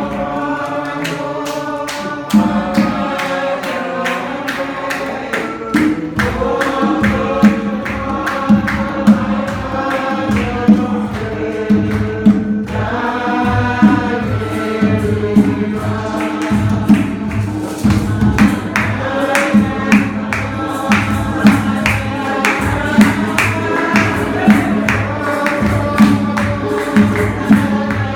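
Church choir and congregation singing a gospel song, with percussion joining about two seconds in and keeping a steady beat.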